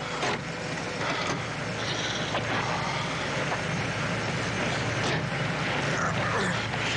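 A patrol car's engine idling steadily, with a few light knocks.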